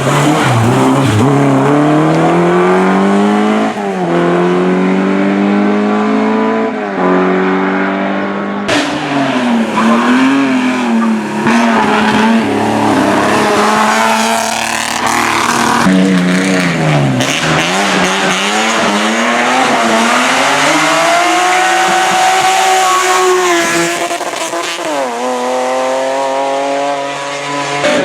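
Race car engine at full throttle, climbing in pitch through each gear and dropping sharply at each upshift, then falling and wavering as it slows for corners. There is a sharp crack about nine seconds in.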